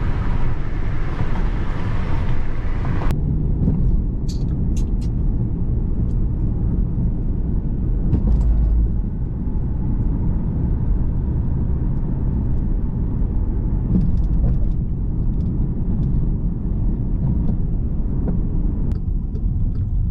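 Car road noise heard from inside the cabin while driving: a steady low rumble of engine and tyres. A higher hiss over it cuts off suddenly about three seconds in, and a few faint ticks follow.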